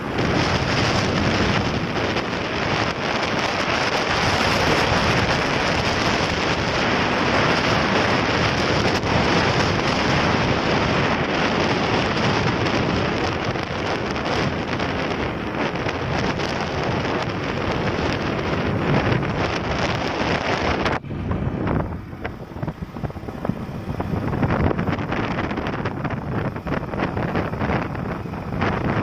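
Wind rushing over the microphone of a moving motorcycle, with road and engine noise underneath, a steady loud rush. About three-quarters of the way through, the hiss cuts off suddenly and the sound becomes quieter and rougher.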